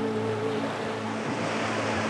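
Steady rush of sea water, with a low steady hum underneath.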